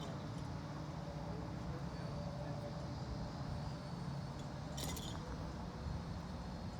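Steady low mechanical drone, like an engine running, with a single short metallic clink about five seconds in.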